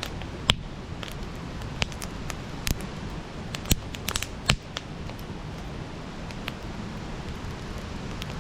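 Wood campfire burning: a steady low hiss with irregular sharp crackles and pops, a flurry of several pops in the middle.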